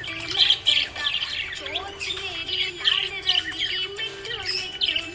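A flock of budgerigars chattering and chirping continuously in fast, overlapping warbles, over a soft, steady melodic tone underneath.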